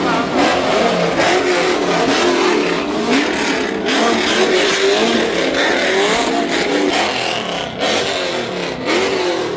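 Car engines revving over and over, the pitch rising and falling every second or so.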